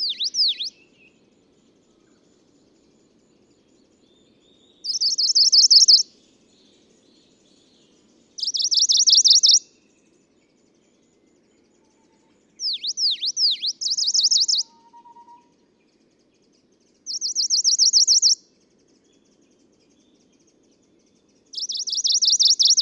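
Male Tokara leaf warbler (Phylloscopus tokaraensis) singing: about six short, high, rapid trills of repeated notes, each about a second long, every few seconds. A couple of the phrases open with a few steep downward-sweeping notes.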